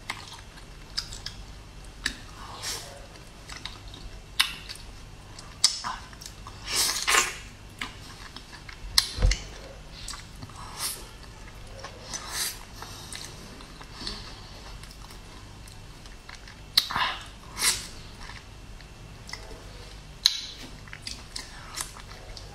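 Close-miked chewing of durian flesh, with irregular short mouth smacks.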